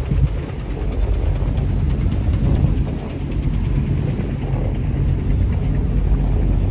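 Engine of a river tourist boat running steadily under way, a low drone with water and hull noise.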